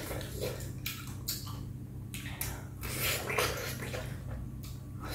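Close-up mouth sounds of a person chewing and eating: wet, irregular lip smacks and squelches, a few each second.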